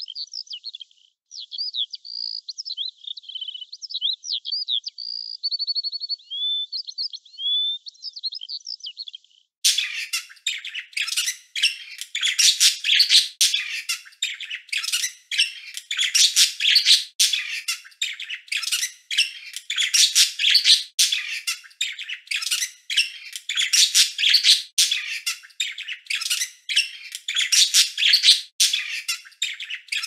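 Songbird chirps and whistles in a varied run of short notes, then about nine and a half seconds in an abrupt switch to louder, dense, rapid chirping that keeps on in quick clusters.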